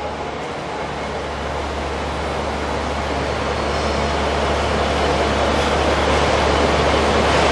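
Hobart 4732A stainless steel meat grinder running steadily, its electric motor and auger giving a low hum under a broad mechanical whir that slowly grows louder.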